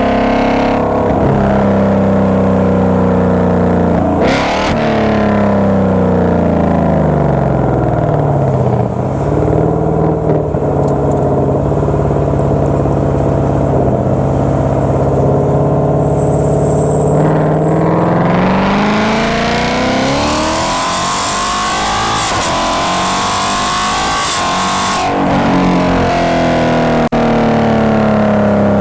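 Car exhaust fitted with a 3D-printed Z-pipe mid pipe and 55 cm resonators, heard while driving. The engine note drops and then holds steady at cruise. About two-thirds of the way in it climbs hard in pitch and turns raspy under acceleration, falls sharply at a gear change, then climbs again.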